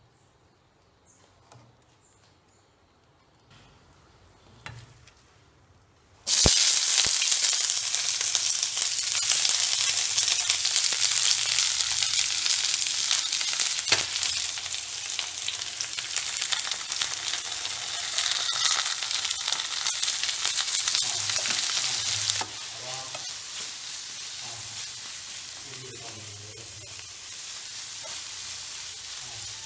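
Sliced onions, ginger and garlic frying in hot oil in a frying pan. The sizzle starts suddenly and loud about six seconds in as they hit the oil, then drops to a softer, steady frying sizzle about two-thirds of the way through while they are stirred.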